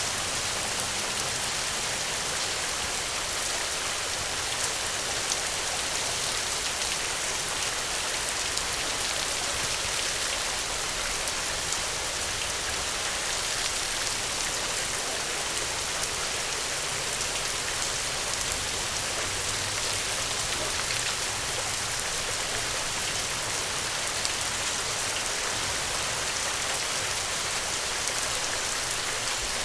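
Steady rain falling, a constant hiss with scattered individual drops ticking.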